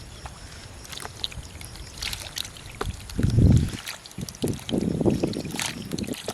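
Water splashing and sloshing, with scattered sharp clicks and two heavier bursts, one about three seconds in and a longer one about five seconds in.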